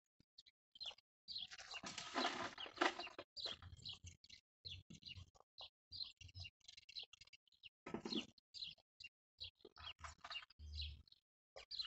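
Small birds chirping with short, high calls again and again, with louder noisy bursts, the loudest about two seconds in and another about eight seconds in.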